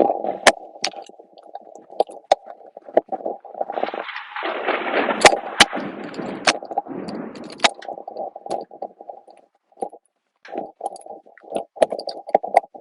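Thunder rumbling, with many sharp crackles and pops through it. It grows louder and hissier from about four to seven seconds in, then breaks up into scattered crackles.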